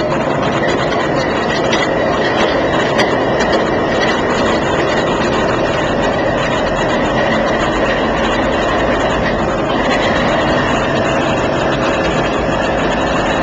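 VIA P42DC locomotive's GE 16-cylinder diesel engine idling steadily just after starting, running with no load on it yet.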